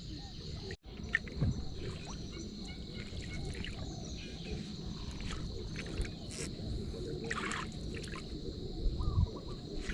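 Outdoor ambience dominated by a steady, high insect drone from crickets. Underneath it are a low rumble and a few faint knocks and rustles.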